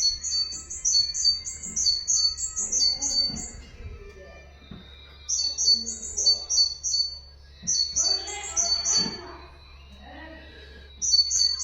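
Recorded songbird song: bouts of quick, high-pitched notes repeated several times a second. The first bout lasts about three and a half seconds, more follow at about five and eight seconds, and a short bout comes near the end.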